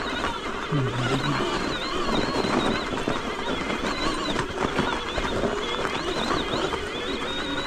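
Electric mountain bike riding over a snowy trail: a steady rush of tyre and ride noise, full of small rattling ticks, with a thin wavering high whine throughout.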